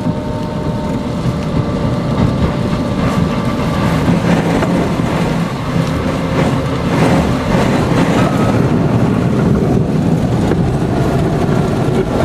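A van driving through deep floodwater in heavy rain, heard from inside: a loud, steady rush of water spray and rain over the sound of the engine.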